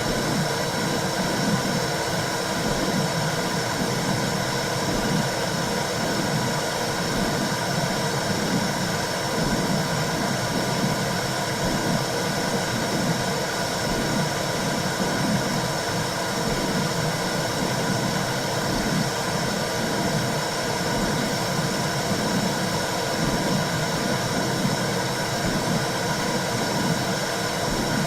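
Womb-sound recording for soothing a newborn: a steady whooshing noise with a low, rhythmic pulsing beneath it, continuous and unchanging in level.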